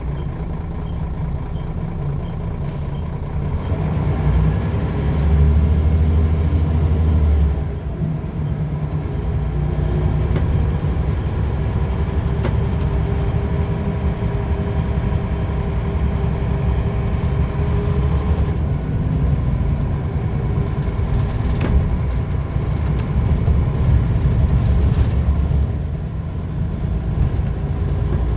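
Scania L94UB bus's diesel engine and ZF automatic gearbox running under way. The engine note swells a few seconds in and falls back sharply, then holds steady with a whine through the middle and eases off near the end.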